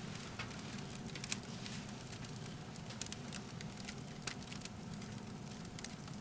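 Firewood crackling in a titanium wood stove: scattered sharp pops and ticks, the loudest about a second in, over a steady low background noise.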